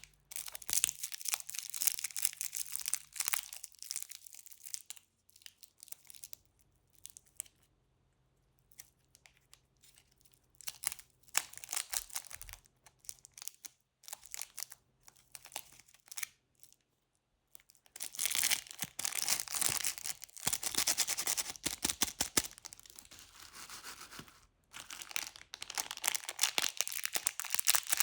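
Candy and chocolate wrappers being crinkled and torn open, in several long bursts with quiet gaps between, the longest and loudest in the second half.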